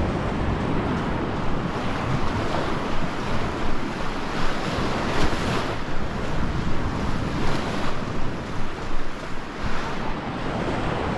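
Sea surf breaking and washing on the shore, with wind buffeting the microphone; the noise swells and falls unevenly through the middle.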